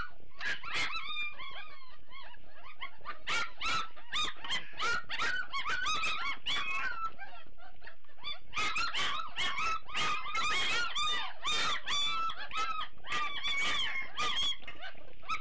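A litter of young Great Dane puppies whining and squealing, many short high cries rising and falling and overlapping one another, with sharp clicks among them.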